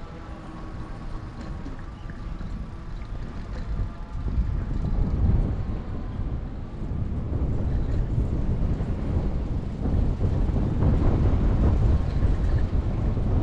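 Steady low rumble of city traffic and wind heard while riding a bicycle, growing louder about four seconds in.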